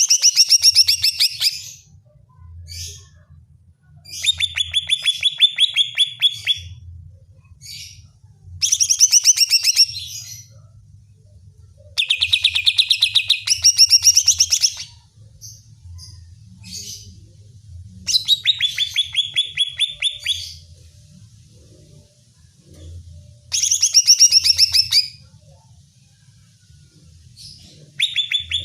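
Cucak ijo (green leafbird) singing in loud phrases of rapid, repeated chattering notes, each phrase one to three seconds long and coming every four to six seconds. A faint low hum runs underneath.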